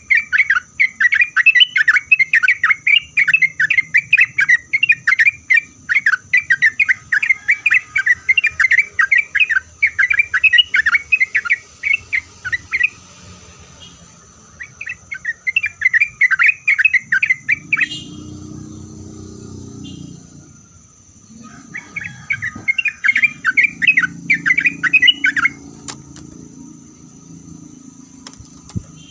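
Yellow-vented bulbul (trucuk) in full song: rapid, bubbling chattering phrases that come in three long spells, stopping about 13 s in, again around 18 s, and near the end. A low rumble runs underneath in the later part.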